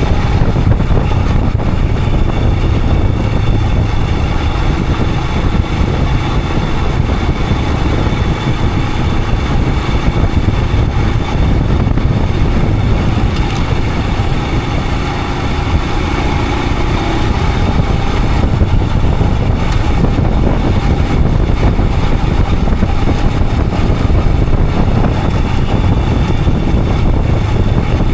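Royal Enfield Himalayan 411's single-cylinder engine running steadily while riding, mixed with a low rumble of wind on the action camera's microphone.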